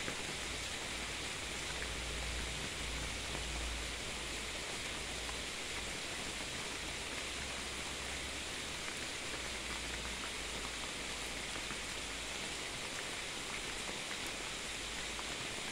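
Steady rain falling in a thunderstorm, an even hiss without thunderclaps.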